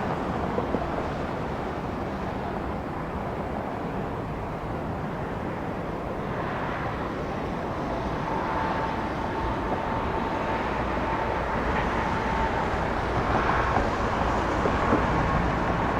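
Airliner jet engines running, a steady rumble with a faint steady whine coming in about halfway through, slowly growing louder.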